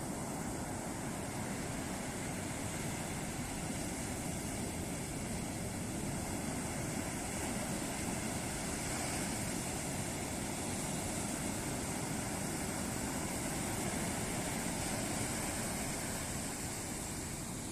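Ocean surf breaking on a beach: a continuous rush of waves that swells gently through the middle and eases off near the end.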